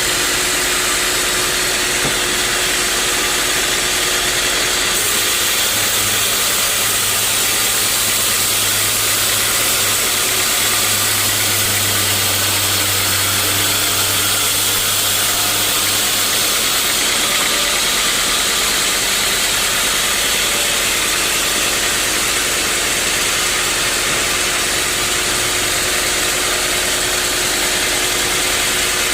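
Sawmill saw running steadily, a loud even hiss of machinery, with a low hum joining about six seconds in and dropping away around seventeen seconds.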